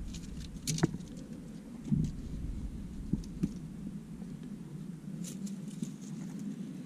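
Climbing shoes, hands and body scraping and tapping against the rock while chimney climbing: scattered scuffs and clicks, with a louder knock about two seconds in.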